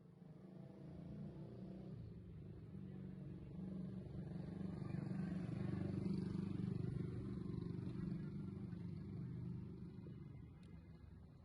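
A low mechanical rumble that builds over the first few seconds, peaks about halfway and fades near the end.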